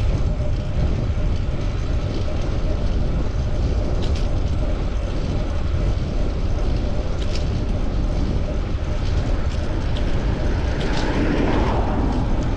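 Wind rushing over the microphone with tyre and road noise from a fixed-gear bicycle ride through city traffic, steady throughout, with a louder swell of noise near the end.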